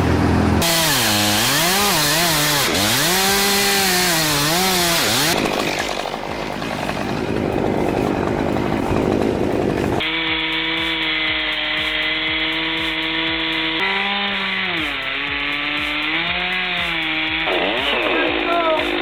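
Chainsaw engines running under the operators' throttle, the pitch swinging up and down as they rev and load in the cut, then holding high and steady. The sound changes abruptly about halfway through and again near the end, as one clip gives way to the next.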